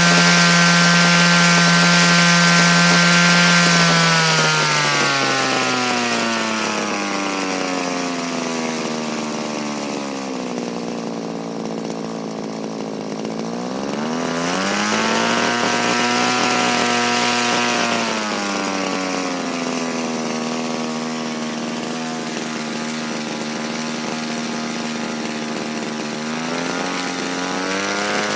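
Small petrol engine of a Raptor 50 gasser RC helicopter running, its pitch falling and rising with the throttle: high at first, easing down over several seconds, revving up again about halfway through, then settling lower and picking up again near the end.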